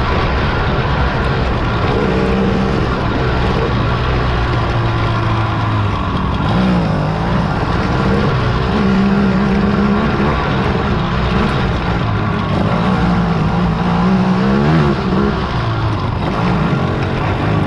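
Several racing quad (ATV) engines revving up and down as they ride past, their overlapping engine notes rising and falling in pitch without a break.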